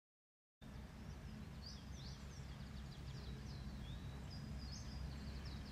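Outdoor ambience starting about half a second in: small birds chirping over a low, steady background rumble.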